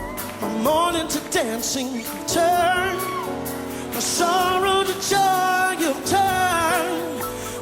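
A song: a solo singing voice with wide vibrato over held accompaniment chords.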